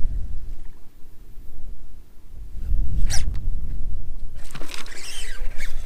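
Strong wind buffeting the microphone in low, gusting rumbles, with a sharp click at the start, a brief rushing noise about halfway, and a longer rustling, scraping noise near the end from the kayak or gear.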